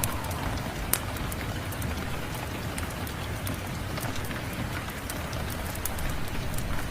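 Steady rain with a wood fire crackling over it: scattered sharp pops and snaps, one louder pop about a second in.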